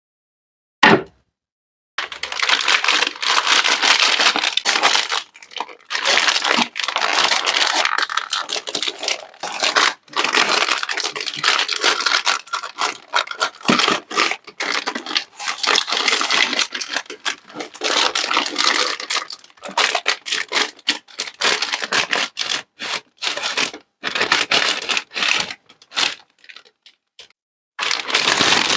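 Plastic sweet packaging being crinkled and torn open, in dense crackling rustles with short breaks, after a single sharp click about a second in.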